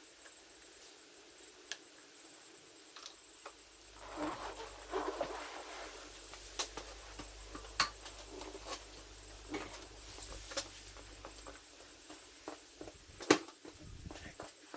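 Scattered light clicks, taps and rustling of hand work on motorcycle handlebar controls, with one sharper click near the end.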